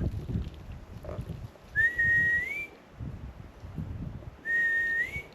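Two whistles calling dogs, each a held note that rises in pitch at the end. The first comes about two seconds in and the second near the end.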